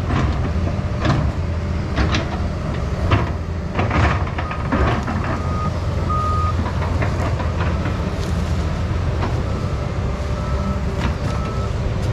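Heavy diesel machinery working: the Doosan 350 excavator's engine running steadily under load, with sharp metallic clanks about once a second at first. From about halfway through, a backup alarm beeps on and off, sounding from the excavator or a truck moving into position.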